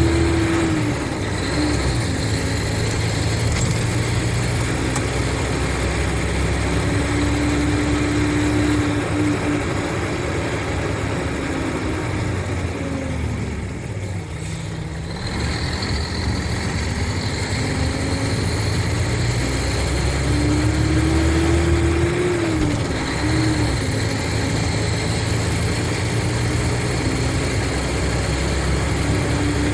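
Mercedes-Benz O500RSD coach's diesel engine running, its engine note rising and falling several times with the revs and sinking lowest about halfway through.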